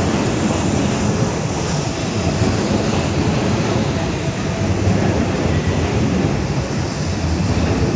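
Electric commuter train running past the platform in an underground station: a steady, loud rumble of wheels and running gear.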